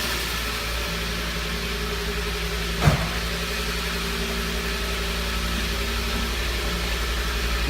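Audi 100 CL 5S's carburetted inline-five engine idling steadily after a cold start. A single sharp click sounds about three seconds in.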